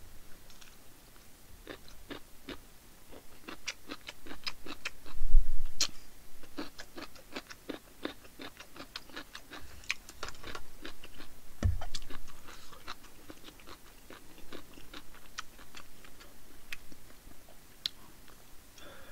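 Close-miked chewing of crunchy cubed radish kimchi (kkakdugi): a dense run of crisp crunches, several a second. Two dull thumps, about five and twelve seconds in, are the loudest sounds.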